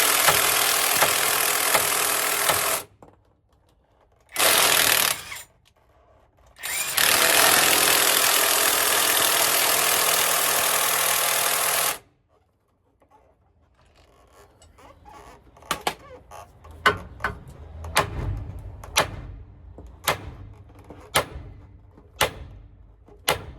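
Power tool hammering on a stuck driveshaft yoke in three long, loud bursts, the last about five seconds long. After a pause comes a run of sharp metal knocks, roughly one a second, like hammer blows on the yoke.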